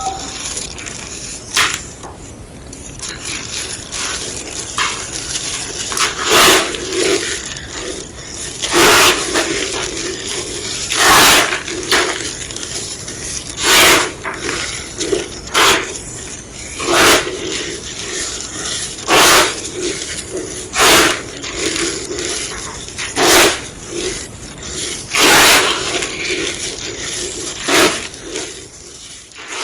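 A big slab of gym chalk being crushed into powder: a sharp crunch about every two seconds from about six seconds in, with softer crumbling between.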